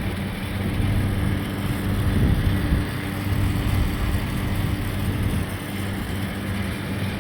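Steady rain hiss with the even hum of a vehicle engine running.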